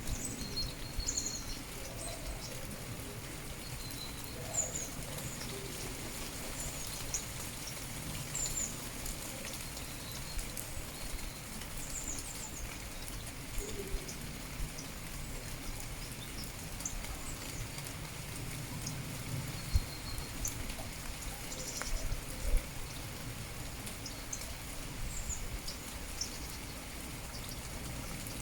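Steady rain falling, with small birds giving short high chirps scattered throughout. A couple of louder sharp drips or taps stand out about two-thirds of the way in.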